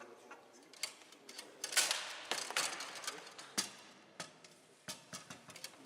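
Bonzini foosball table in play: sharp clacks of the ball being struck by the figures and knocking around the table, with rod rattling, and a dense run of rapid clatter about two seconds in.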